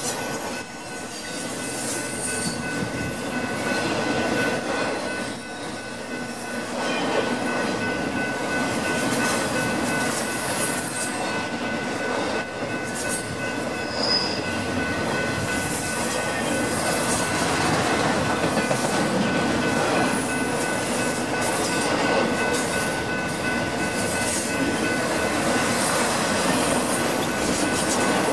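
Intermodal freight train's trailer-carrying flatcars rolling past at speed, a steady rush of steel wheels on rail with a steady high tone underneath.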